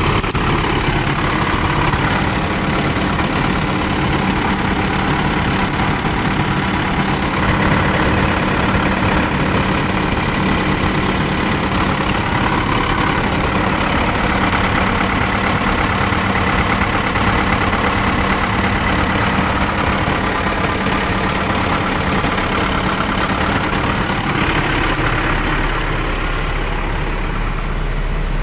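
Samsung LC130 excavator's diesel engine running steadily at idle.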